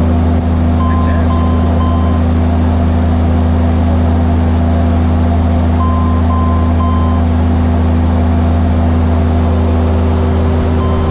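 Saab 340 aircraft's steady drone with an alert tone of three short beeps that repeats about every five seconds, typical of the cargo smoke warning being sounded.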